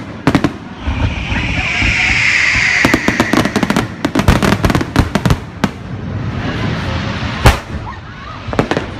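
Fireworks going off: a few sharp bangs, a high whistle about a second in that falls slightly in pitch over about two seconds, then a rapid run of crackling pops, and one loud single bang near the end.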